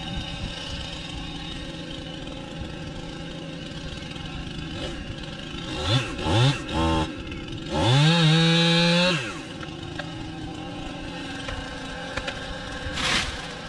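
An idling engine is blipped three times in quick succession, then held at high revs for about a second and a half before dropping back to idle.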